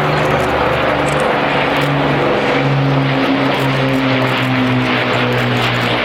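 Two Avro Lancaster bombers flying past, the massed drone of their four-engined Rolls-Royce Merlin V12s and propellers. The sound is loud and steady, and its pitch shifts as the engines fall in and out of step.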